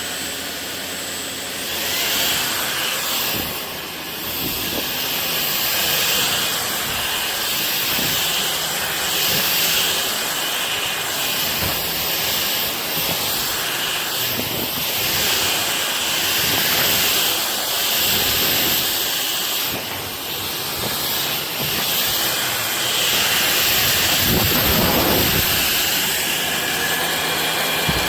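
Ultenic U16 Flex cordless stick vacuum running, a high motor whine over a steady suction hiss, the level rising and falling as it works.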